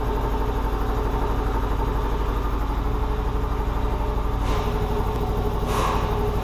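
2.4-litre Ecotec four-cylinder engine idling steadily with an even pulse.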